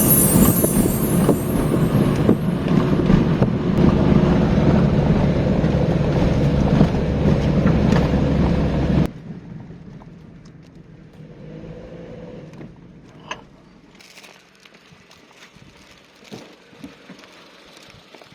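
A motor vehicle engine running steadily, which cuts off suddenly about halfway through. After that only a quiet background with a few faint clicks remains.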